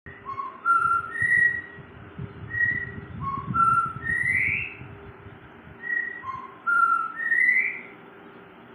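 Songbird singing a clear whistled phrase of stepped rising notes, each phrase ending in an upward slur, repeated three times about three seconds apart.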